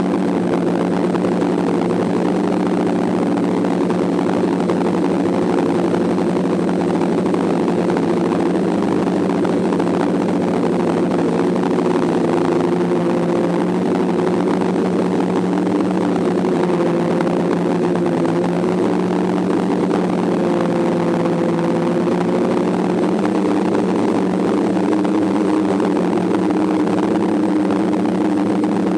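DJI F550 hexacopter's six brushless motors and propellers running steadily in flight: a steady hum of several close tones that drift slightly up and down in pitch.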